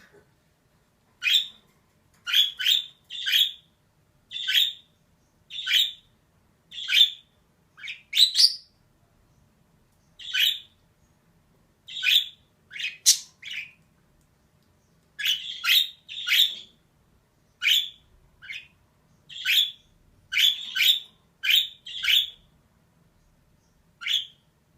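Female budgerigar giving short, sharp chirping calls one at a time, about one a second at irregular spacing, some in quick pairs, with silence between them.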